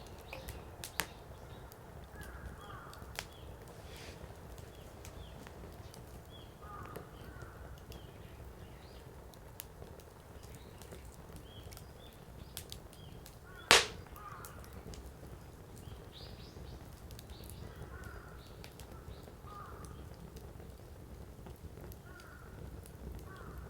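Firewood burning in a Coleman Fire Disc: a steady low rumble of flame, with scattered crackles and one sharp, loud pop about fourteen seconds in.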